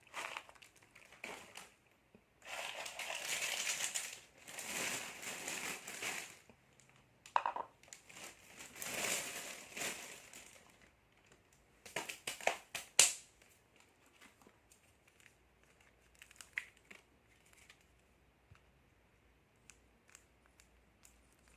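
Plastic snack packets crinkling and being crushed as they are handled and opened, in two long bursts of rustling, then a few sharp snaps a little past the middle, then only small scattered crackles.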